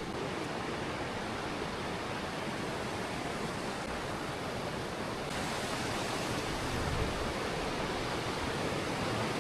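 Mountain stream or waterfall water rushing as a steady, even hiss; about five seconds in, the higher part of the hiss turns abruptly brighter.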